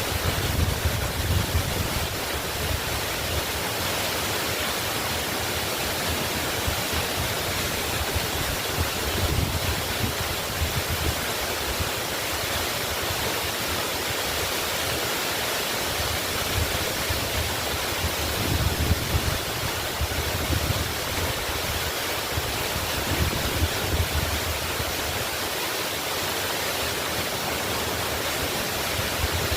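Waterfall pouring steadily: a continuous, even rush of falling water, with low rumbling swells every few seconds.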